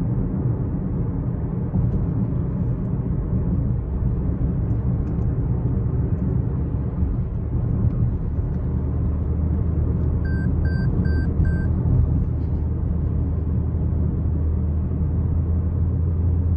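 Steady low rumble of a 12th-generation Toyota Corolla Altis hybrid, dropping slightly in pitch partway through, with faint ticks now and then and four short beeps about ten seconds in. The car is being checked for an abnormal noise that comes when the steering wheel is turned.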